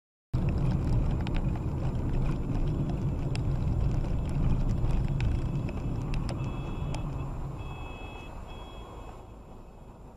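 Heavy road-vehicle rumble with scattered clicks and rattles, starting abruptly and slowly fading. Partway through, an electronic warning beep sounds in three short runs.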